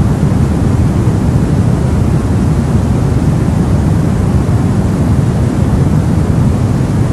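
Steady sleep noise for babies: an unchanging hiss that sits mostly in the low end, deeper than true white noise, like pink or brown noise.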